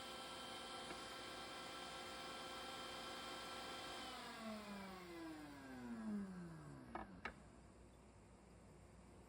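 Electric woodworking machine motor running steadily, then switched off and winding down, its pitch falling for about three seconds until it stops. Two sharp clicks follow just after it stops.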